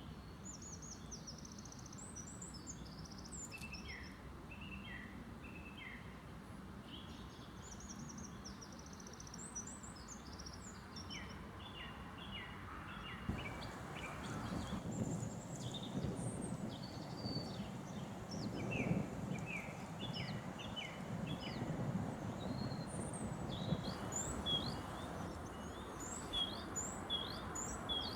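Several songbirds singing and calling together in a spring forest, a busy mix of short chirps, trills and whistled notes. Underneath runs a steady background noise that grows louder about halfway through.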